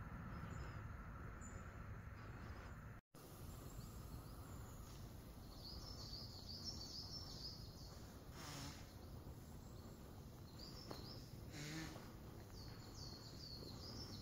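Small birds chirping in short runs of high notes over a low steady outdoor rumble, with a brief dropout to silence about three seconds in and two soft swishes later on.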